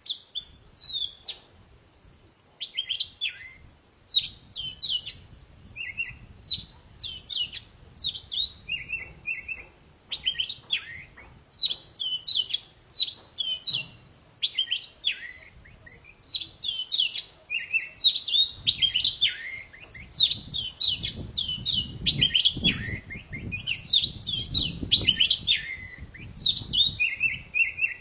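Oriental magpie-robin (kacer poci) singing a fast, vigorous song of sharp chirps and whistled notes, delivered in short phrases about once a second with brief pauses between.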